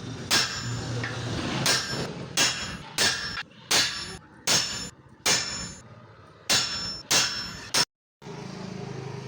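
Hammer blows on steel, about ten sharp ringing strikes at an uneven pace, typical of forging leaf-spring steel on an anvil. After a brief break near the end, a steady low hum takes over.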